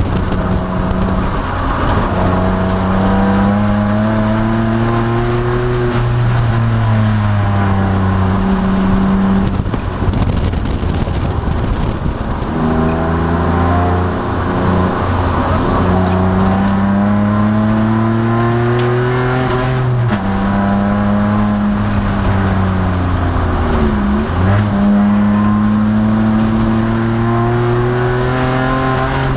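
2002 Nissan Maxima's V6 engine heard from inside the race car's cabin under hard acceleration. Its note climbs steadily in pitch, then breaks off and drops several times as the driver shifts or lifts for corners, with a quick dip and rise about 24 seconds in.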